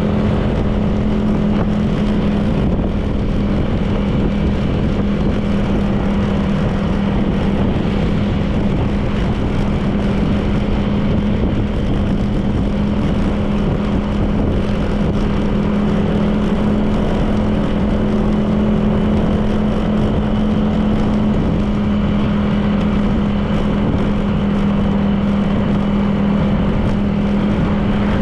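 Honda PCX 160 scooter's single-cylinder engine running at a steady cruising speed, a constant droning note, with wind and road noise on the helmet or bike camera.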